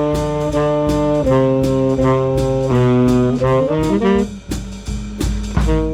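Swing band's horn section, saxophones and brass, playing held chords that move to a new chord every second or so, with drums keeping time. About four seconds in, the long chords give way to shorter notes.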